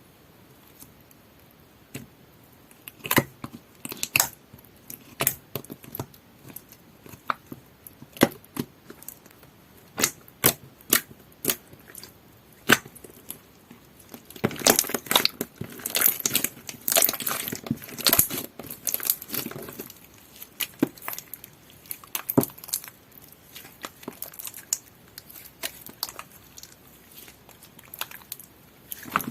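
Orange two-tone slime being poked and pressed by hand: scattered sharp clicks and pops, a few per second, then a denser run of crackling and squelching from about halfway through that thins out again.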